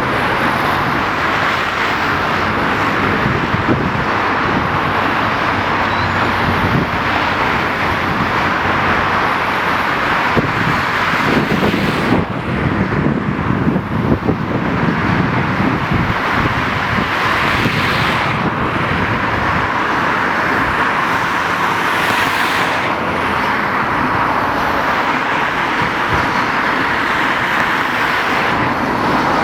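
Loud, steady road traffic noise from a busy major road, rising and falling a little as vehicles pass.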